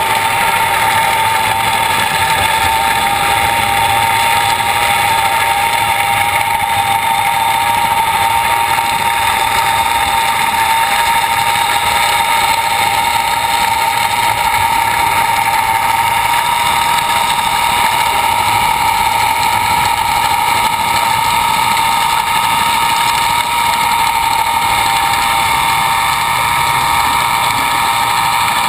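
LP Stingray in-situ net cleaner running underwater, its spinning cleaning discs stripping mussels and barnacles off a predator net. A steady, unchanging mechanical whine with one strong high pitch.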